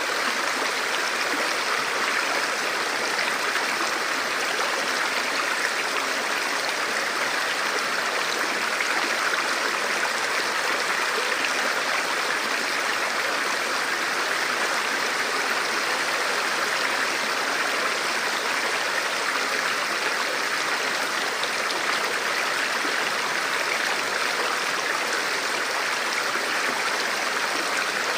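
A forest stream or small river flowing steadily over rocks, an even rushing of water without pause.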